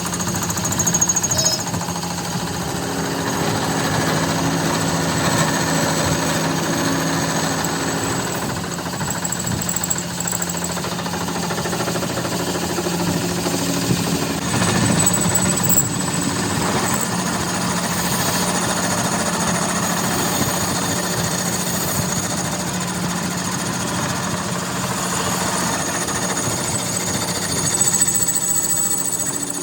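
Continuous rapid mechanical rattling over a steady low hum, even in level throughout.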